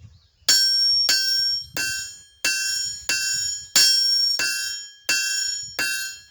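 Hand hammer striking metal on an anvil in steady blows, about three every two seconds. Each blow rings clearly with a bell-like tone that fades before the next.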